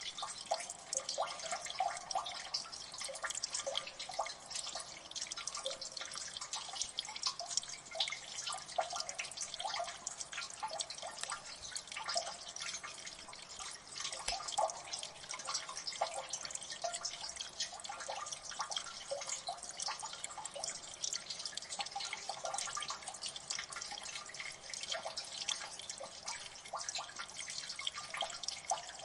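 Water dripping in a gully: many fast, irregular drops plinking and splashing, densely overlapping with no steady rhythm.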